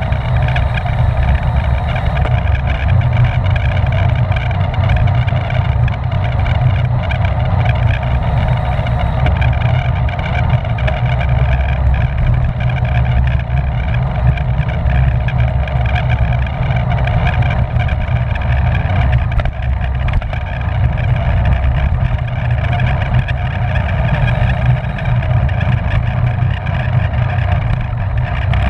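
Steady wind rush and buffeting on a racing bicycle's onboard camera microphone, with a constant low rumble and the hum of the bike's tyres and drivetrain underneath.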